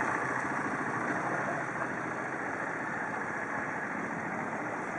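Engines running steadily, a continuous even drone with no sharp knocks or changes.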